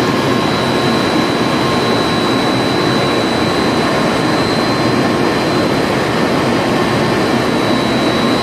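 An N700-series Shinkansen train standing at the platform, giving a steady, loud whirring hum from its onboard equipment, with a thin, high, steady whine over it.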